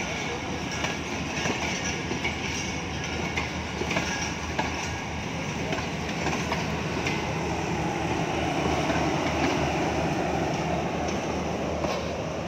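Pakistan Railways passenger coaches rolling past at close range: a continuous rumble of steel wheels on the rails with repeated clicks, swelling for a couple of seconds after the middle.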